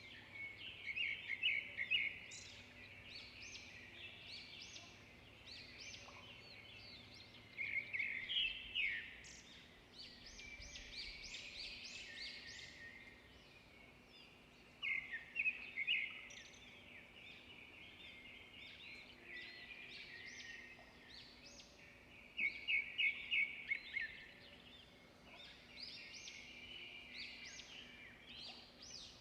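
Several small songbirds singing and chirping together, with a loud, rapid trilled phrase repeating every several seconds.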